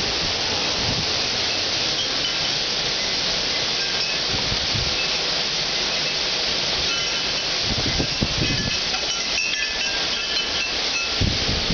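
Heavy thunderstorm rain falling in a steady loud hiss, with wind chimes tinkling now and then. Brief low rumbles come about eight seconds in and again near the end.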